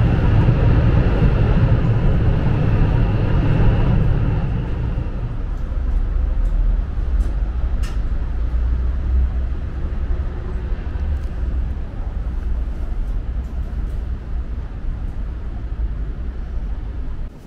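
Steady low rumble and hiss of a high-speed train running, heard from inside the carriage; louder for the first few seconds, then settling to an even rumble.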